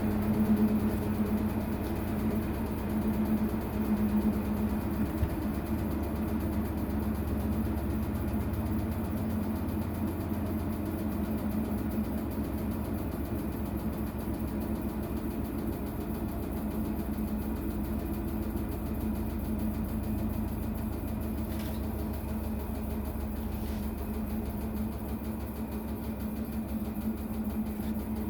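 Maytag washing machine running during a tub-clean cycle: a steady motor hum with low rumble.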